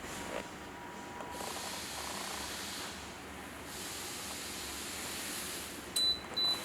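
A 2000 W standing electric heater's fan blowing with a steady hiss of air that grows brighter for stretches. Near the end come two short, high beeps from its control panel.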